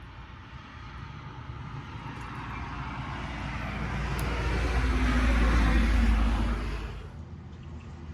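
A vehicle passing on the road, its tyre and engine noise growing steadily louder to a peak about five to six seconds in, then falling away quickly about seven seconds in.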